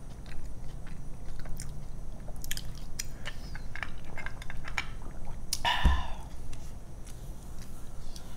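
Close-miked chewing and wet mouth clicks, with a short breathy vocal sound and a low thump about six seconds in.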